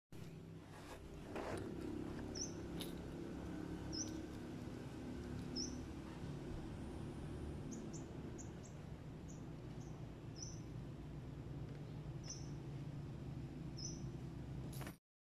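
Small birds chirping: short high chirps every second or two, a quick cluster of them around the middle, over a steady low outdoor rumble.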